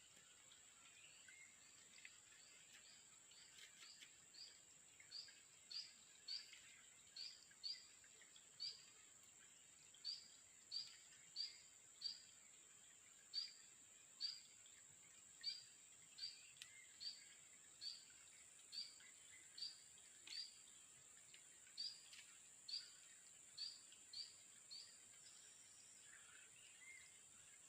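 A small bird giving short high chirps over and over, about one a second, starting a few seconds in and stopping a few seconds before the end. A steady high-pitched insect drone runs underneath.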